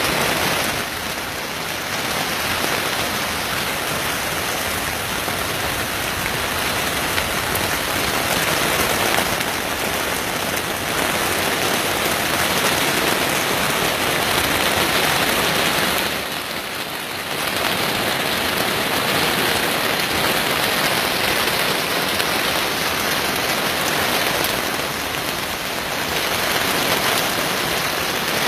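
Heavy rain pouring down in a steady, dense hiss, easing briefly about a second in and again around sixteen seconds in.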